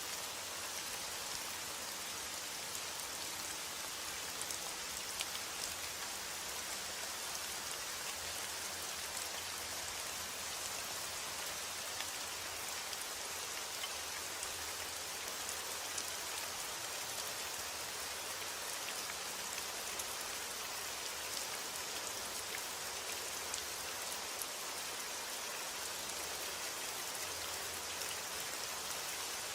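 Steady rain falling, an even hiss with many small drop taps on a surface.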